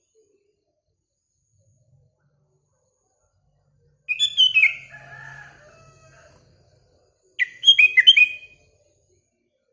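Sooty-headed bulbul (kutilang) calling in two short bursts of quick, down-slurred whistled notes, the first about four seconds in and the second near the end. A fainter, lower call trails after the first burst.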